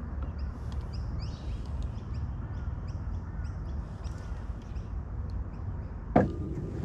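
Birds chirping in short high notes, repeated a few times a second, over a steady low wind rumble on the microphone, with one sharp knock about six seconds in.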